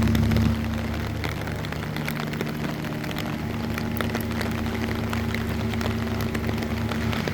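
Rain dripping and ticking in scattered drops over the steady low hum of a motor vehicle engine, which drops in level about half a second in.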